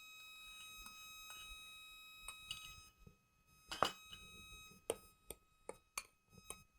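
A faint steady high-pitched whine with a light hiss, then, from about four seconds in, a run of sharp clinks of a utensil against a plate while mixing the batter.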